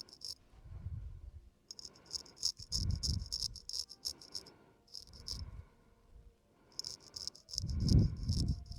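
Razor blade scraping across a man's facial stubble close to the microphone, a crisp rapid crackle in separate strokes: one at the start, a long one from about two to four seconds in, a short one near five seconds and another from about seven seconds. Low thuds come with the strokes, the loudest near eight seconds.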